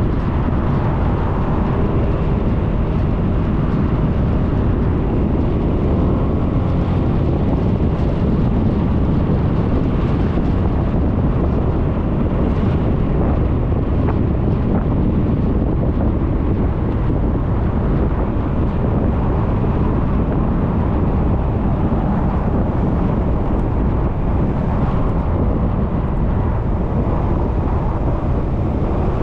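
Wind rushing over a scooter-mounted GoPro microphone while riding, with the Suzuki Burgman 400 scooter's engine and road noise underneath, all steady and loud.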